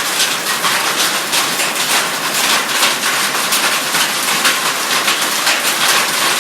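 Hail coming down hard: a dense, unbroken clatter of many hailstones striking hard surfaces, with rushing rain-like noise underneath.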